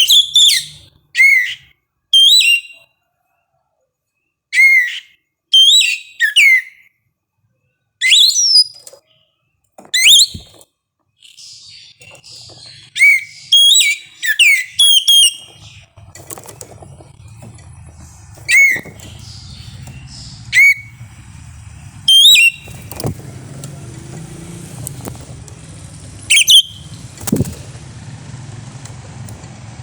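Oriental magpie-robin singing: loud, clear whistled notes in short separate phrases, some sliding up or down in pitch, with pauses between them. A low steady hum runs underneath from about halfway through.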